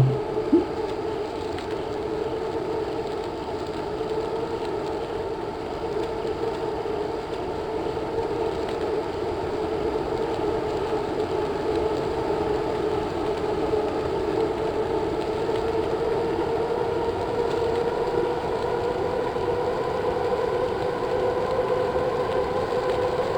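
Steady mechanical whine in two tones that slowly rise in pitch and grow a little louder, over a noisy rush, with a short knock right at the start.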